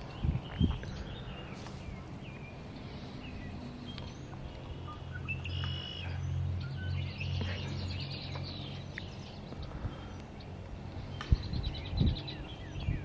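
Songbirds chirping and singing throughout. A low engine-like drone swells up in the middle and fades again, and there are a few sharp knocks near the start and again near the end.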